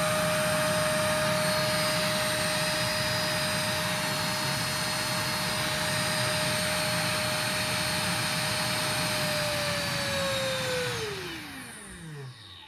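GeeMo K14 cordless stick vacuum running steadily with a high motor whine and rushing air. It is then switched off, and the motor winds down in a falling whine that fades out over the last three seconds.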